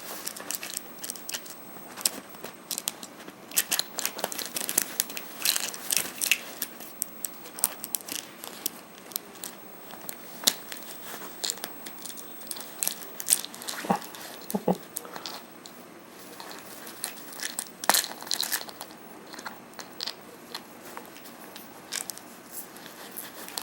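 An African grey parrot biting, scraping and knocking a plastic pill bottle: irregular clicks, crunches and scrapes throughout.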